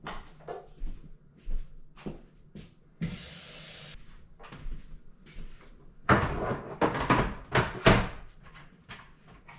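Kitchen clatter while coffee is being made: cupboard doors and objects knocking, scattered at first, then a busier run of knocks and rattles after about six seconds. There is a hiss lasting about a second, three seconds in.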